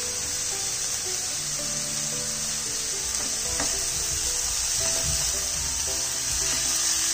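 Chopped vegetables sizzling steadily in a hot nonstick frying pan as soy sauce is poured over them and a silicone spatula stirs them, under background music of slow held notes.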